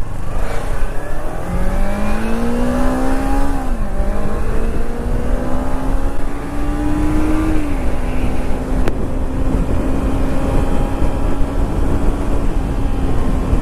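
Kawasaki Ninja 300 parallel-twin engine pulling away and accelerating through two upshifts: the note climbs, drops at a shift about three and a half seconds in, climbs again and drops at a second shift near eight seconds, then holds a steady cruise. Wind rumbles on the helmet microphone throughout.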